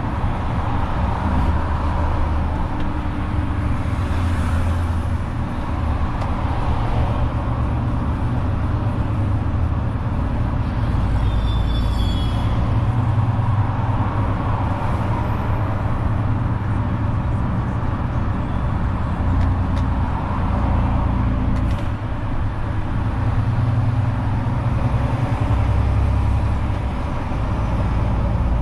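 Renault truck's diesel engine running steadily while driving, a low drone that shifts a little in pitch as it pulls and eases off. A brief high squeal about twelve seconds in, and a sharp click a few seconds before the end.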